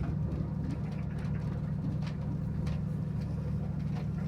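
Freight train with a Lema locomotive running: a steady low rumble with a few sharp clicks spaced irregularly over it.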